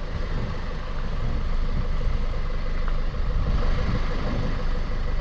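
Four-wheel-drive vehicle's engine running steadily at low revs as it crawls slowly off-road.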